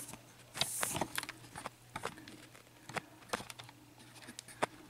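Scattered light clicks and taps of small objects being handled at close range, with a brief hiss under a second in.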